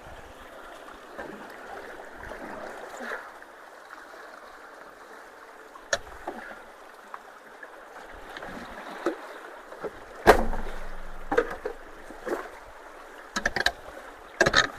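Creek water running steadily through a culvert, with scattered knocks and clunks: a loud one about ten seconds in and a quick run of them near the end.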